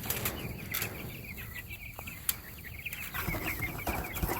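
Cornish Cross broiler chickens peeping and clucking, a busy run of short high chirps that thickens about three seconds in, with a few sharp clicks.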